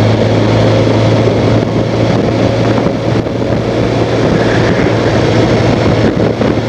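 Honda Crosstourer's V4 engine running steadily at road speed, a constant low drone under a rushing noise.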